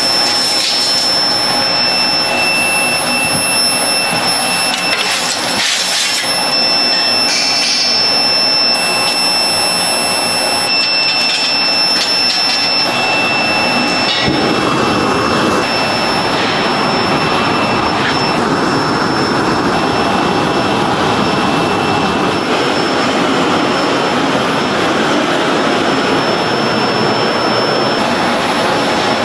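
Steady, loud workshop machinery noise with a thin high whine, turning into a denser, rougher noise about halfway through.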